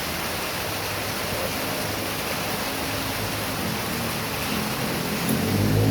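Heavy rain falling steadily, a constant rushing hiss. Near the end a vehicle's engine comes in low and grows louder as it approaches along the road.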